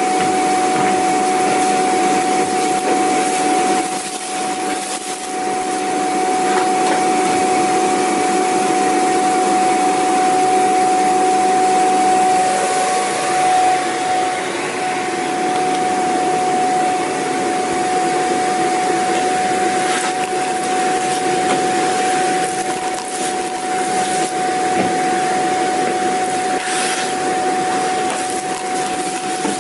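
Vacuum cleaner motor running steadily: a loud, constant rush of air with a high steady whine.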